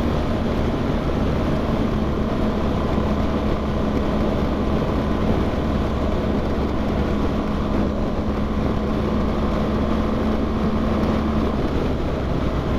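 Motorcycle engine running at a steady speed, heard from the rider's helmet with wind and road noise. The engine's steady hum fades near the end.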